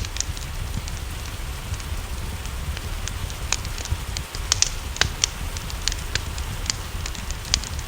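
Wood fire crackling with frequent sharp, irregular pops over a steady hiss of rain and a low rumble.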